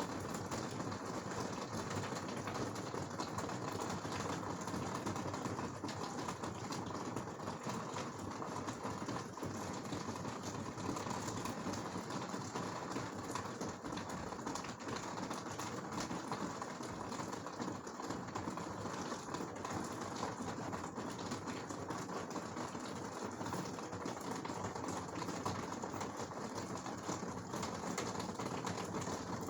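Heavy rain during a severe thunderstorm, a steady, dense patter of drops with no thunderclap.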